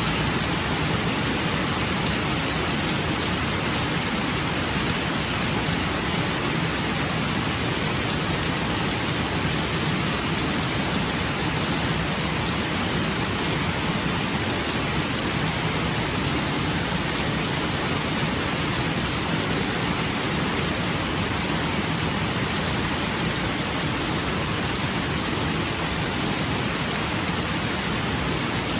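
Steady rain falling, an even, unbroken hiss that does not let up.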